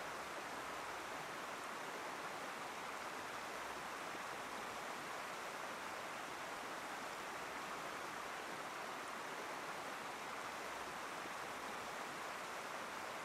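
Steady, even rush of flowing floodwater from the Chehalis River flooding, with no change in level throughout.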